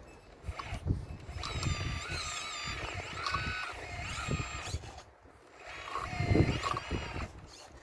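Radio-controlled model excavator working, its motor whine stepping up and down in pitch as the machine moves. Irregular low knocks and rumbles of stone come through it, the loudest about six seconds in.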